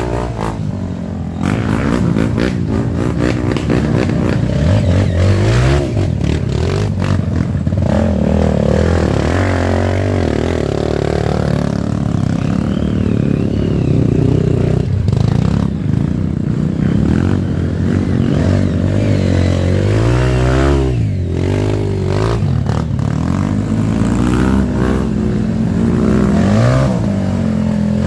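Off-road trail motorcycle engines revving over and over, their pitch rising and falling in repeated surges that overlap one another.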